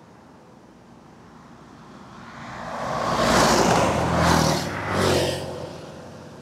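Road traffic passing close by: engine and tyre noise swells over a couple of seconds, peaks in the middle with a few surges, then fades away.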